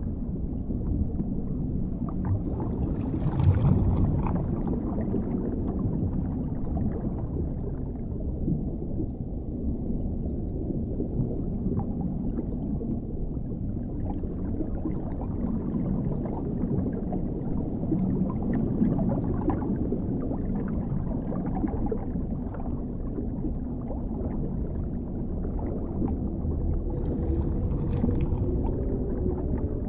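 Underwater ambience: a steady, deep rumble of muffled water with faint scattered bubbling ticks, swelling briefly a few seconds in and again near the end.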